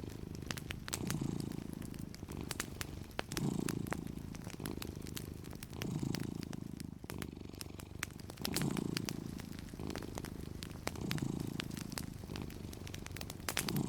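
A cat purring, the purr swelling and easing in a slow, even rhythm about every two and a half seconds as it breathes. Small sharp pops of a crackling wood fire run over it throughout.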